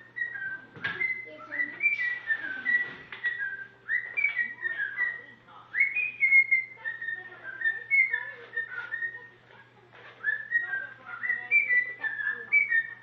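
Cockatiel whistling a tune in phrases of short, clear notes that step up and down in pitch, pausing briefly between phrases. A faint steady low hum sits underneath.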